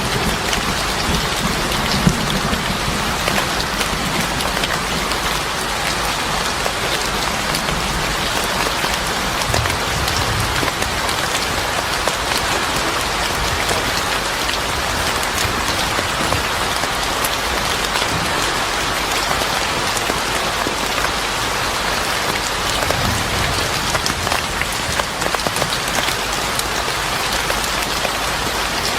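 Steady, dense rain pattering on a surface, with fine drop ticks throughout and two brief low rumbles partway through.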